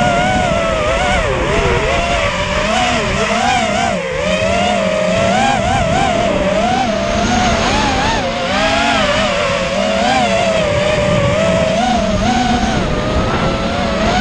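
FPV racing quadcopter's motors whining, the pitch rising and falling constantly as the throttle changes.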